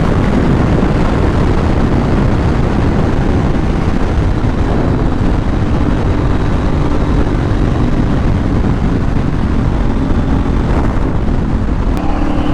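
Motorcycle riding at highway speed: loud wind rush on the rider's microphone over a steady engine note, with the engine tone coming through more clearly about halfway through.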